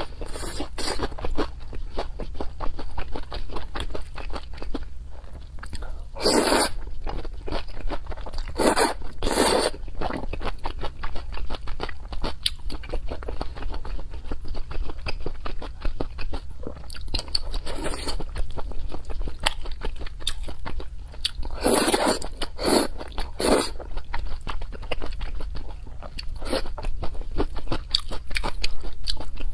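Eating sounds of a person chewing thick noodles in spicy sauce: a steady run of wet mouth clicks, with a few louder noisy spells about a quarter of the way in and again about three quarters of the way through.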